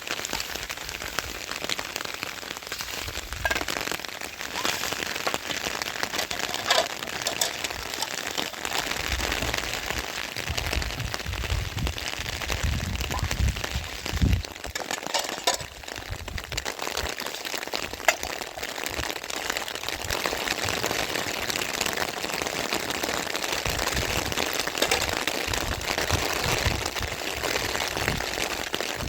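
Steady rain falling, with scattered sharp clicks of individual drops striking close by.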